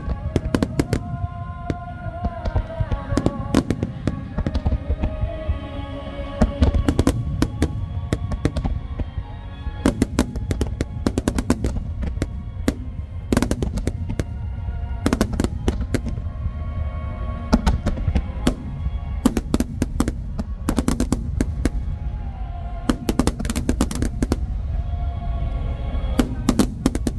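Large aerial fireworks shells bursting in a rapid barrage, many sharp bangs in quick clusters over a continuous low rumble, with music playing throughout.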